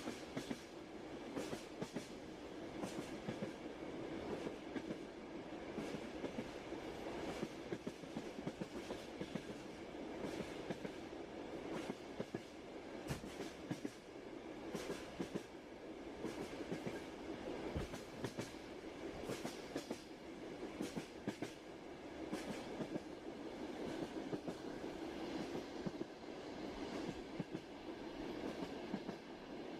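Train wheels on the rails as the train runs: a steady rumble with irregular clickety-clack clicks.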